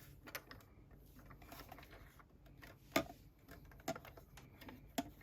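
Faint scattered plastic clicks and taps from a small hand-cranked die-cutting and embossing machine being handled and turned around on a table, with three sharper knocks about three, four and five seconds in.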